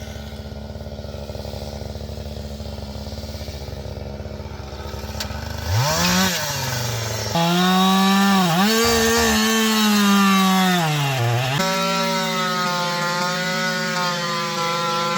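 Chainsaw idling, then revved to full throttle about six seconds in and cutting, its pitch sagging and recovering under load before holding steady at high revs near the end.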